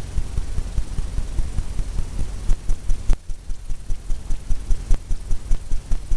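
Fan brush tapped repeatedly against a stretched canvas while laying in oil paint: a steady run of soft thumps, about three a second.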